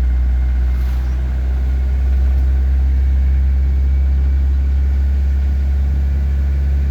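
Code 10 truck's engine running steadily at low revs while the truck moves slowly in a low gear.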